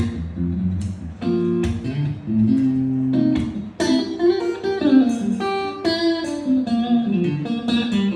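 Guitar playing a melodic line of sharply plucked notes, with a faster run of notes stepping down in pitch over the second half.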